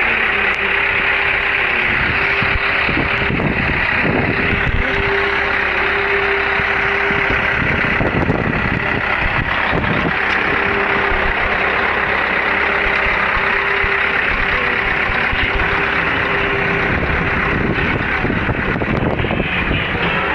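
Scania L164 480 V8 truck engine running steadily, with a steady whine that drops out and returns every few seconds.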